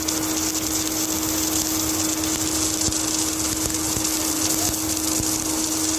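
Automatic submerged arc welding machine running at a steady hiss and whir, with a constant low hum under it and a few faint ticks.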